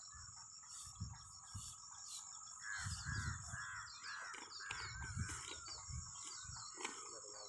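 Birds calling: a quick run of repeated chirping calls in the middle, over a steady high-pitched background chorus, with a few soft low thuds.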